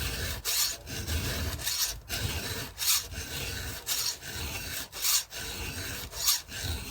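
Hand file rasping across the cutters of a chainsaw chain in a series of repeated push strokes, roughly one every half second to a second, as the chain is sharpened.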